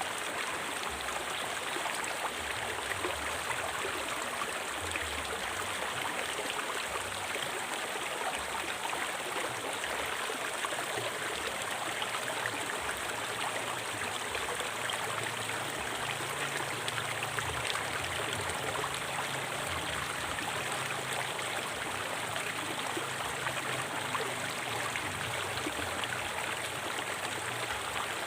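River water flowing and splashing over rocks, a steady rushing that never lets up.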